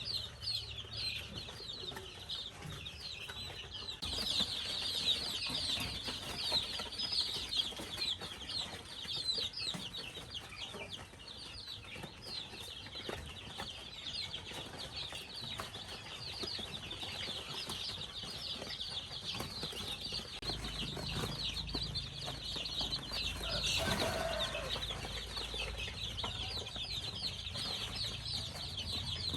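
Many chicks peeping at once in a constant high chatter of short calls. A louder, lower call stands out about three quarters of the way through, over a low rumble in the later part.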